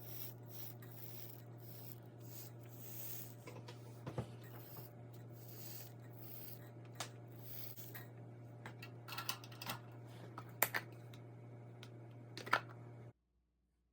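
A hot soldering iron tip rubbing and scraping across a slice of bread, with a few sharp clicks in the second half. A steady low hum runs underneath. The sound cuts off suddenly near the end.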